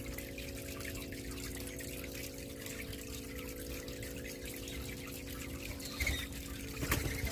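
Wind chimes holding several low ringing tones together over a steady hiss. There is a short knock about six seconds in and a sharper one near the end.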